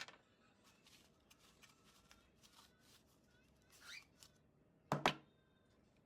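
Faint ticks and light handling of small plastic parts, with a short rising squeak just before four seconds and two sharp clicks close together about five seconds in.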